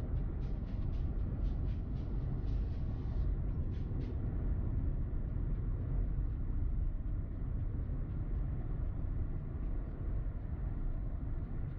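Steady low road rumble of a car driving on snowy roads, with a quick run of faint ticks or clicks in the first four seconds.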